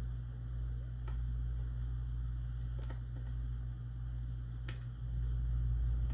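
Steady low hum with a few isolated sharp clicks, about two seconds apart, as small metal shotgun parts are handled at a workbench.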